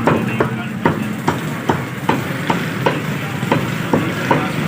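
Rapid, evenly paced chopping strokes as chicken is cut up on a chopping block, about eleven sharp knocks at two to three a second, over a steady low background hum.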